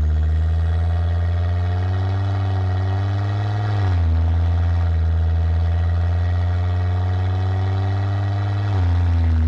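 2006 Volvo S60R's turbocharged inline-five running through a custom exhaust with a 3-inch downpipe, accelerating under load: the exhaust note climbs steadily in pitch, drops at an upshift about four seconds in, then climbs again until a second upshift near the end.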